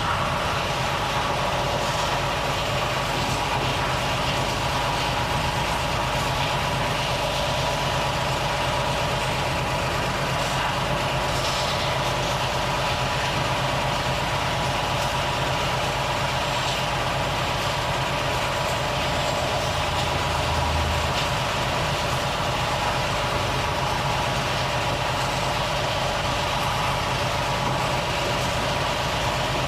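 Volvo FH truck's diesel engine running steadily at an even pitch.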